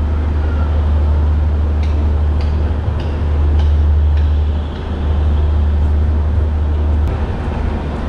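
Sleeper-class passenger train coach rolling along the rails as the train pulls out: a steady low rumble, with a run of sharp metallic clicks and clanks from the wheels about two to four seconds in.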